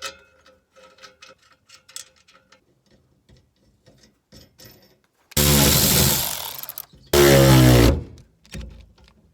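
Light metal clicks and tool handling, then two loud bursts of a handheld power tool, the first about a second and a half long and the second shorter, while the exhaust is being mounted to a rubber isolator hanger.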